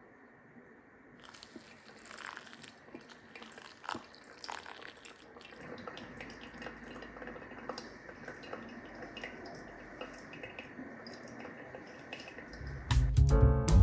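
Faint small clicks and taps over a light background hiss. Music with a heavy bass line comes in suddenly near the end.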